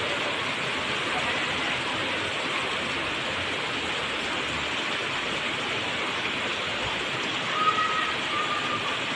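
Steady rain falling, an even hiss of water, with a couple of faint short tones near the end.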